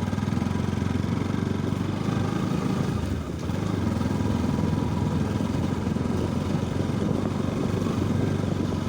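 Motorcycle engine running steadily as the bike is ridden along a rough, muddy dirt track, easing off briefly a little over three seconds in.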